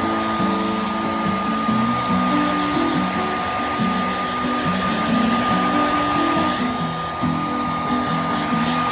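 Electric hair dryer blowing steadily with a high whine, drying newborn goat kids just after birth. A tune of background music plays under it.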